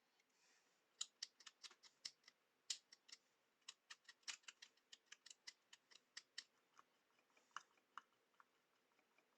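A quick, irregular run of small, sharp clicks and snips, a few a second for about seven seconds, then thinning out: close-up hand work with small tools on a cordless screwdriver during repair.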